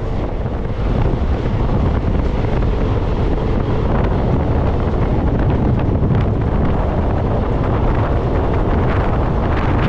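Wind buffeting the microphone over the steady rumble of a moving Indian Railways sleeper train, running at speed.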